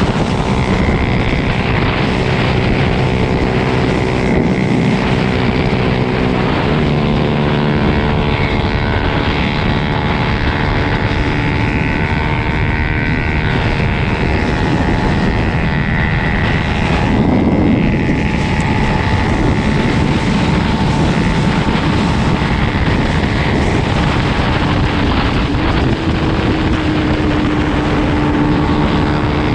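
Dirt bike engine running while riding, its pitch rising and falling with the throttle, over a steady rushing noise.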